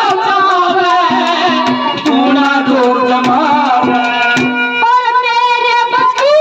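Harmonium playing a folk melody of held and changing notes over regular hand-drum strokes, in Haryanvi ragni style.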